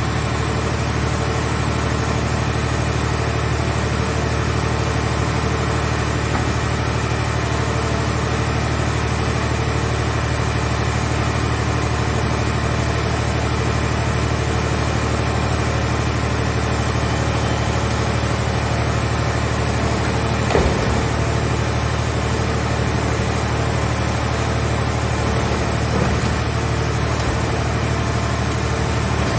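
Engine of a mobile car-body baler running steadily, with a couple of brief knocks late on.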